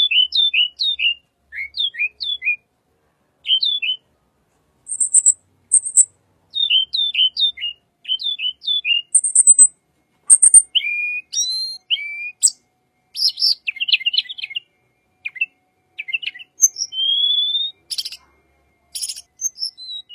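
Wild tledekan bird singing, used as a lure call: phrases of quick, high chirps that each slide down in pitch, broken by short pauses, with a few buzzy very high notes in the middle and a rising whistled note near the end.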